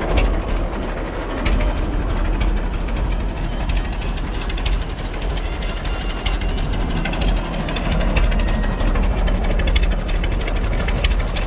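Old truck's engine running at idle: a steady low drone with a fast, fine mechanical clatter over it.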